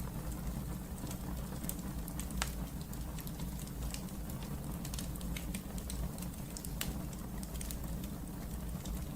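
Wood fire burning in a fireplace: a steady low rumble of the flames with irregular sharp crackles and pops scattered through.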